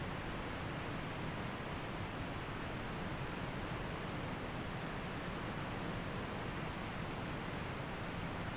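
Waterfall and creek water rushing steadily, an even, unbroken hiss of falling and flowing water.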